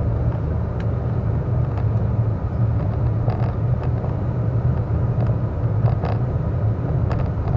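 Steady road noise inside a moving car: a constant low hum of engine and tyres, with a few faint clicks.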